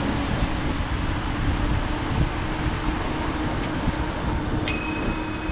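Wind rushing over the microphone with road noise while riding a bicycle. A faint steady hum runs underneath, and near the end a high ringing tone starts suddenly and holds.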